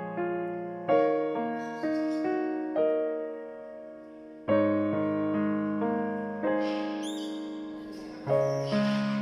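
Background piano music: slow single notes and chords, each struck and fading away.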